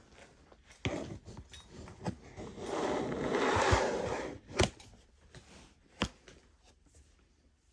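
Costume jewelry being handled on a table: a few light clicks and taps as pieces are picked up and set down, with a rustle lasting about a second and a half in the middle.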